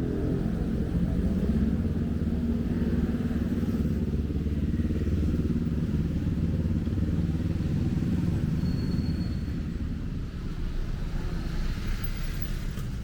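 Street traffic: motorcycle and car engines running close by, a steady low hum that eases off a little near the end.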